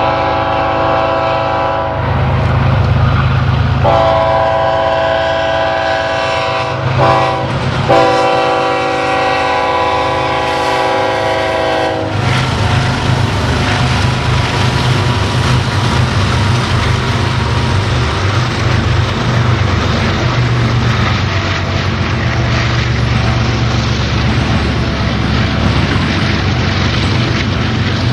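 Locomotive air horn blowing a chord in long blasts, with a short gap about two seconds in and two quick breaks around seven and eight seconds in. About twelve seconds in the horn stops, and the train runs past steadily, the locomotive's engine under the sound of the cars' wheels clacking on the rails.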